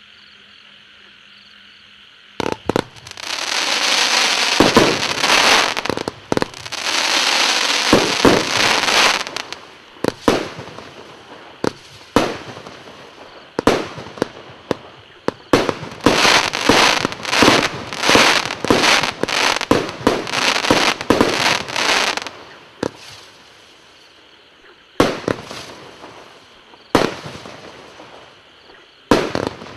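Multi-shot consumer firework battery (cake) firing. After a couple of seconds of quiet, shots go off with rushing, sizzling noise between them, then a rapid run of closely spaced shots midway, then a few spaced single shots near the end.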